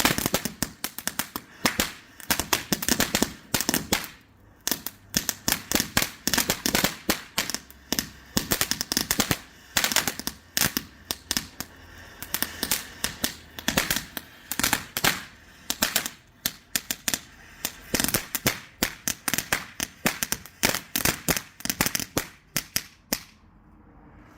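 Santan Fireworks Giant Bullseye cone fountain burning, throwing out a rapid, irregular stream of loud cracks and pops, often in quick clusters, that dies out near the end.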